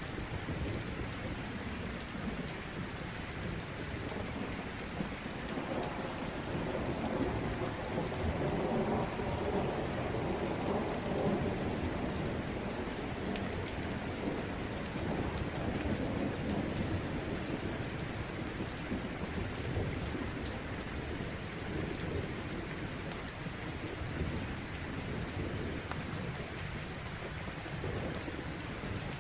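Steady rain with thunder: a low rolling rumble builds about six seconds in and slowly fades over several seconds, with weaker rumbles later.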